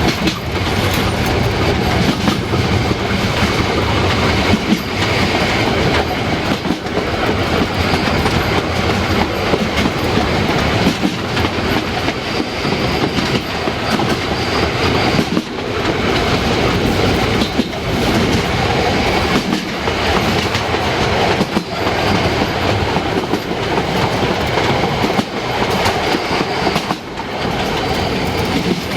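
Harz narrow-gauge steam train on the move: a loud, continuous running noise of the train that holds steady throughout, with only brief dips.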